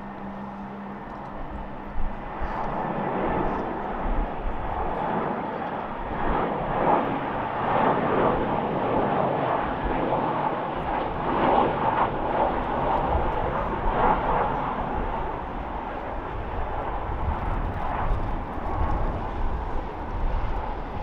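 Airbus A319-100 jet airliner passing close on its landing approach: a broad rushing engine noise that builds over a few seconds, is loudest through the middle, then slowly fades.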